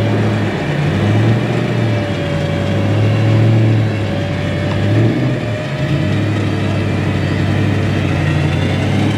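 Four-wheel drive's engine running under load, its revs rising and falling as it pulls forward out of a deep rut on a recovery line. A faint steady whine sits over it for about the first six seconds.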